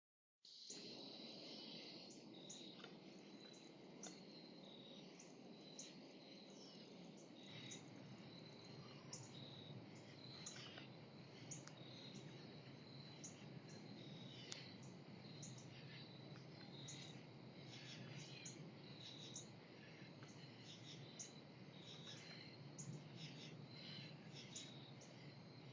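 Faint birds chirping, with many short, sharp high chirps repeating irregularly, over a steady high insect trill and a low background hum.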